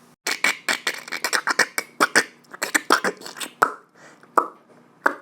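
A quick run of mouth clicks and pops, a vocal sound effect for eggs cracking open as they hatch, thinning out to a few single clicks near the end.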